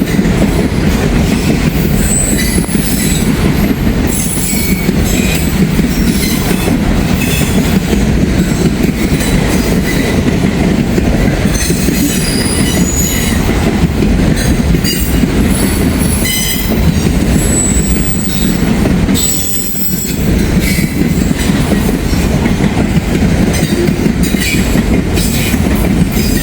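Train cars rolling past close by: a steady heavy rumble of wheels on rail with the click and clack of wheels over rail joints and brief high-pitched wheel squeals throughout.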